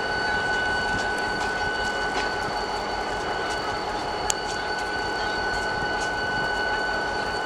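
EMD GT22 diesel-electric locomotive running as its train pulls out, with a steady high whine over the running noise. There are a few faint ticks, and one sharp click about four seconds in.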